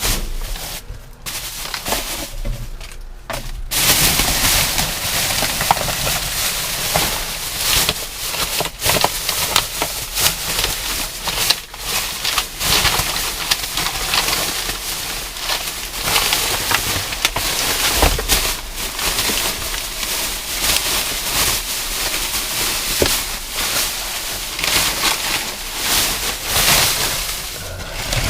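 Plastic bags and packaging rustling and crinkling as found items are handled, with scattered clicks and knocks; lighter for the first few seconds, then busy and continuous.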